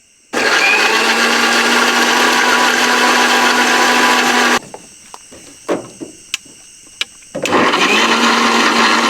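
Electric mixer grinder grinding roasted coconut and spices into a wet masala paste, run in two bursts: about four seconds, a pause with a few knocks, then a second run starting near the end.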